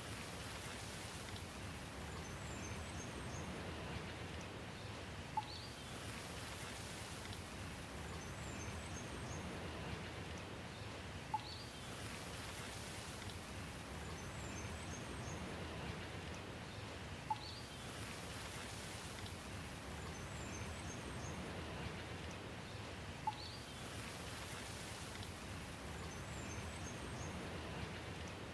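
Steady rain hiss. About every six seconds the same short pattern recurs: a few quick, high bird chirps followed by a sharp tick, identical each time.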